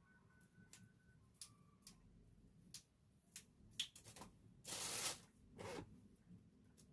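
Light handling noises: scattered soft clicks, then a brief rustling swish about five seconds in and a shorter one just after.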